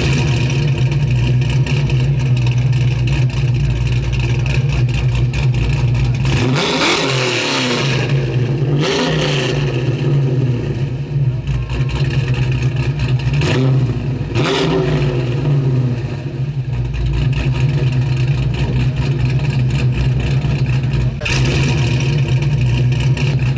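426 cubic-inch Hemi V8 with two four-barrel carburettors, idling steadily in a 1967 Dodge Coronet R/T. It is revved several times, each rev rising and falling in pitch, between about a quarter and two-thirds of the way through.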